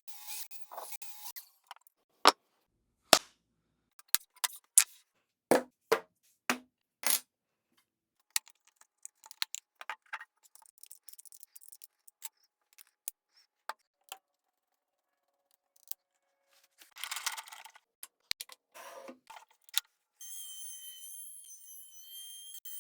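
A series of sharp knocks and clicks of wood and tools being handled at a workbench, the loudest in the first seven seconds, with lighter ticks after and a short scraping noise near the end. In the last few seconds a steady high-pitched whine starts.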